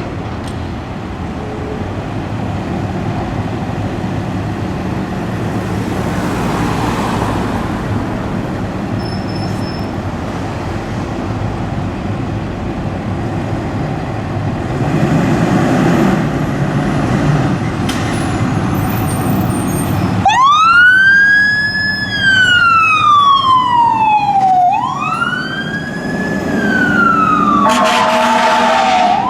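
Road traffic and vehicle engines run for about twenty seconds, then an emergency vehicle's siren starts up, a slow wail rising and falling. Near the end a short horn blast sounds over it before the wail resumes.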